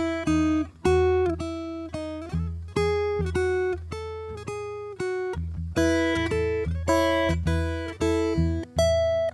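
Acoustic guitar playing slow, gentle improvised music: plucked notes and chords, about two a second, each ringing out and dying away.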